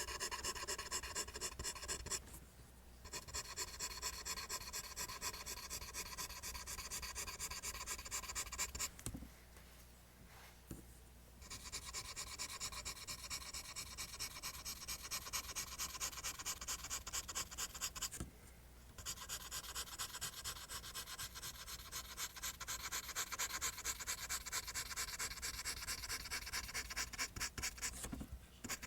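Pencil graphite scratching on paper in fast, rhythmic back-and-forth strokes as lines are drawn, with a few brief pauses between runs of strokes.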